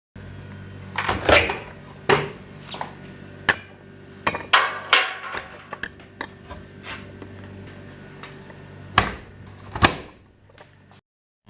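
A dozen or so sharp, irregular knocks and clatters of a hard object, each ringing briefly, over a steady low hum. The loudest hits come about a second in and again near the end.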